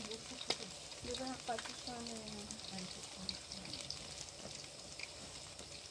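Kotlet meat patties frying in shallow oil in a wide metal pan, a steady fine sizzle and crackle of many small pops.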